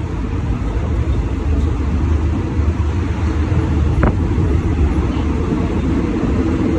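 Steady low rumble of a passenger train carriage running on the rails, with one brief sharp sound about four seconds in.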